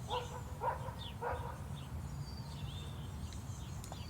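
Faint dog barking, three short barks within about a second and a half, followed by a faint bird chirp.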